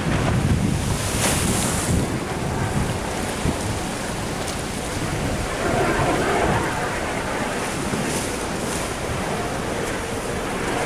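Ocean surf washing against a sea wall, with wind buffeting the microphone, the low rumble of the wind strongest in the first couple of seconds.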